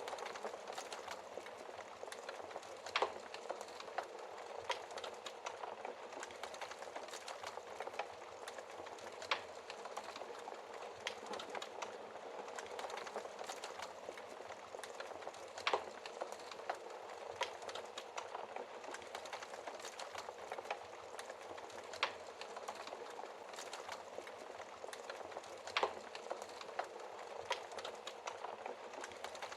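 Wood fire burning in a fireplace: a steady crackle of many small snaps, with a handful of louder pops of burning wood every several seconds.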